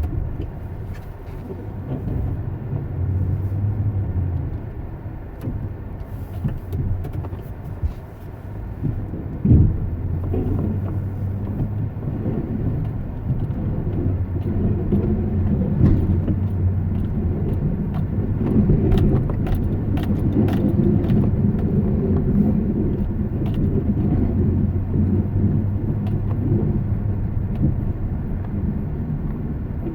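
A motor vehicle running: a steady low drone with scattered clicks and knocks, one sharper knock about a third of the way in.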